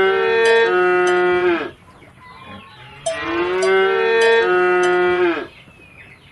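Cow mooing: two long, drawn-out moos, each falling in pitch at the end, the second starting about three seconds in.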